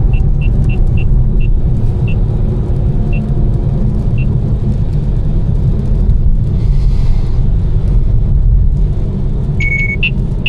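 Tuned BMW M4's twin-turbo straight-six, with catless downpipes and an aftermarket exhaust, running at a steady cruise: a low, even drone under tyre noise on a wet road. A few light ticks sound, and a short beep comes near the end.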